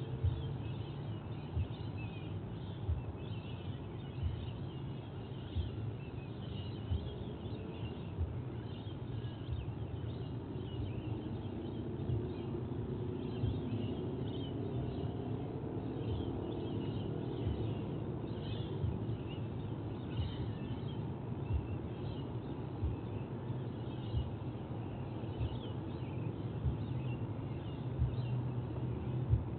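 Outdoor nest-camera ambience: a steady low hum with occasional soft knocks, and many faint, short high bird chirps scattered throughout.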